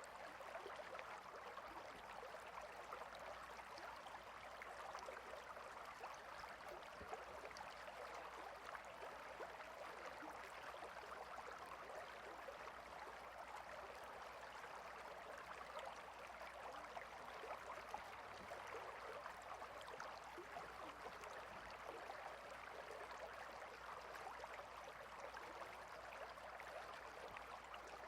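A small stream of water flowing and babbling steadily, with a fine, even splashing texture.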